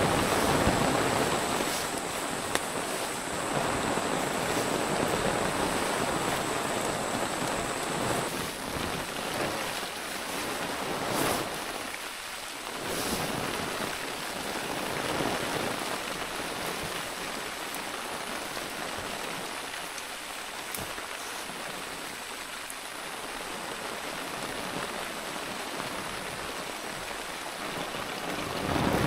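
Heavy rain pouring steadily, swelling louder at the start and again at the end.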